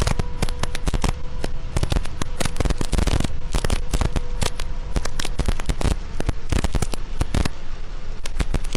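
Heavy rain striking a vehicle's windshield and roof, picked up by a dashcam microphone as a dense, irregular crackling patter, with a faint steady whine underneath.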